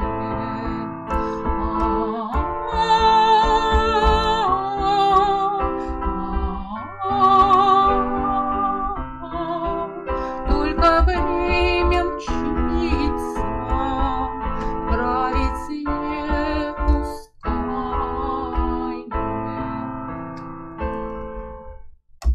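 A woman singing a slow song with vibrato to a piano accompaniment. The music stops just before the end.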